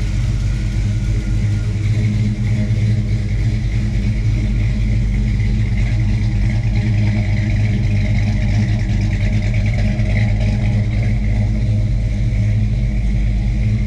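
A 350 cubic-inch Chevrolet small-block V8 crate engine with an Edelbrock four-barrel carburettor, running at a steady idle while it warms up just after a cold start. The choke has been kicked down early, and the idle is expected to smooth out once the engine warms.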